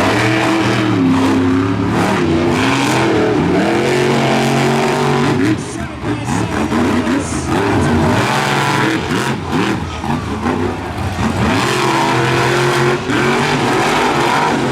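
Monster truck engines running hard during a race, their pitch rising and falling again and again as the throttle is worked, with a short dip in loudness about five and a half seconds in.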